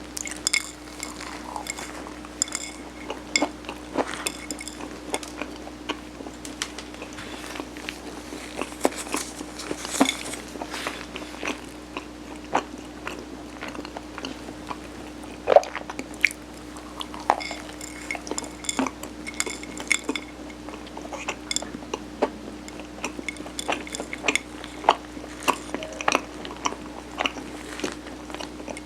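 Close-miked eating sounds: many short clicks and clinks of utensils or a dish being handled, among chewing of soft steamed mung-bean rice cake, over a faint steady hum.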